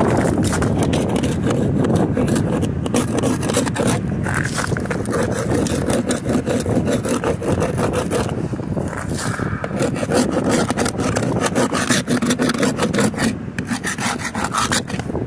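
Ice from freezing rain being scraped off a car, a continuous rasping scrape of rapid strokes.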